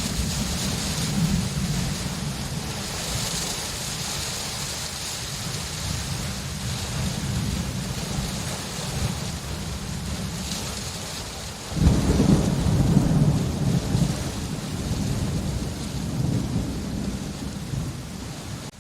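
Steady rain with low rolling thunder. About two-thirds of the way in a louder thunderclap breaks in suddenly and rumbles away over a few seconds.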